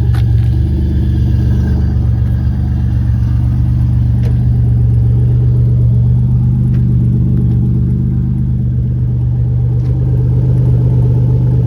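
Supercharged 3.8 L V6 swapped into a 1986 Pontiac Fiero, idling steadily as it warms up after a cold start.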